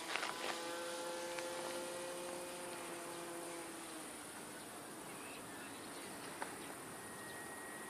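The motor of a homebuilt RC model Mustang airplane drones at a steady pitch and fades out about halfway through. Crickets chirr steadily underneath at a high pitch.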